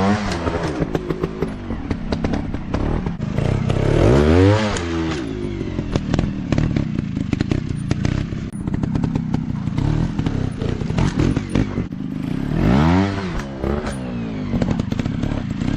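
Dirt bike engines revving: the pitch rises and falls three times, near the start, about four seconds in and near the end, over continuous engine running with clattering between.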